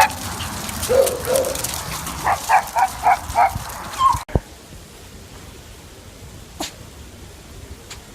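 A dog barking: a couple of lower barks in the first second, then four quick yaps in a row, cut off abruptly a little past four seconds in. After that only faint background noise with two brief clicks.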